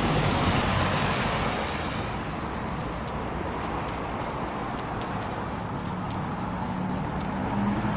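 Steady road traffic noise, with an engine hum growing near the end.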